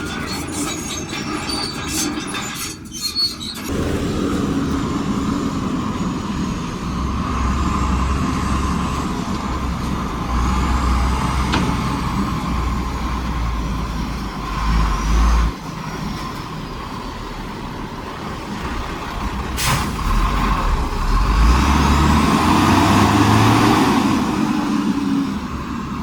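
Heavy diesel machinery at work: an engine running steadily under load with a deep rumble. It rattles and scrapes for the first few seconds, gives one sharp clank about two-thirds of the way through, and revs up with a rising whine near the end.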